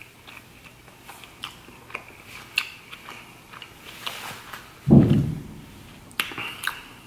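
A man chewing fast food close to the microphone, with many small wet mouth clicks. A low thump about five seconds in, as the milkshake cup is handled.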